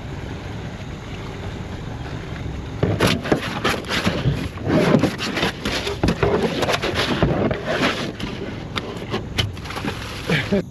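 A big gar splashing and thrashing in the water as it is landed: a steady low rumble for about three seconds, then a long run of loud, irregular splashes and knocks that stops suddenly near the end.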